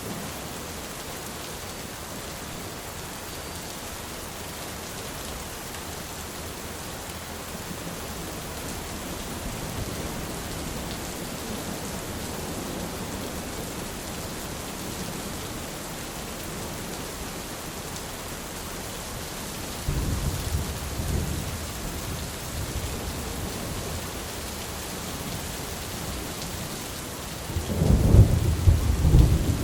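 Steady rain falling, with low rumbles of thunder: one rolling in about two-thirds of the way through and a louder one near the end.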